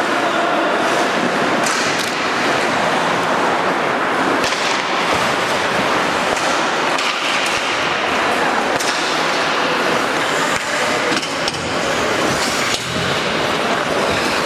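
Ice hockey play on the rink: steady scraping of skates on the ice, with scattered sharp clacks of sticks and puck.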